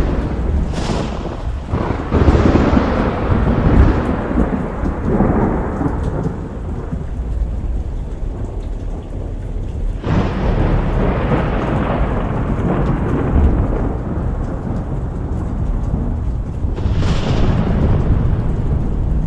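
Steady rain with thunder: sudden claps about a second in, around two seconds, at ten seconds and near the end, each fading into a long rumble, loudest between two and four seconds in.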